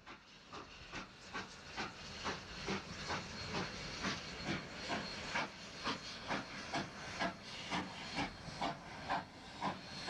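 Narrow-gauge steam locomotive working, its exhaust chuffing in an even beat of a little over two chuffs a second over a steady hiss of steam.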